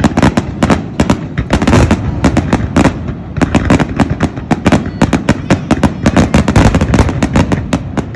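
Fireworks going off in a rapid, unbroken barrage of sharp bangs and cracks, several a second.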